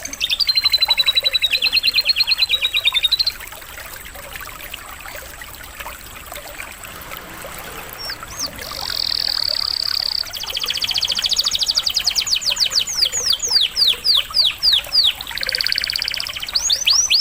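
Domestic canary singing in fast trills of rapidly repeated high notes, with a pause of about five seconds in the middle, over a steady trickle of running water.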